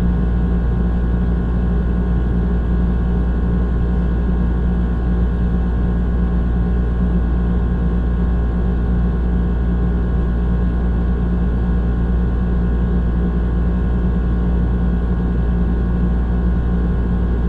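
Old air conditioner running steadily: a loud, even drone with a deep hum and a steady mid-pitched whine.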